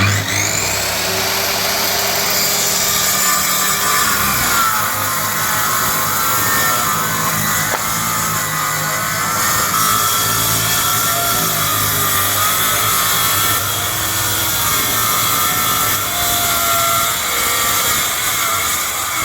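Circular saw starting up abruptly and then running steadily while it cuts through wood.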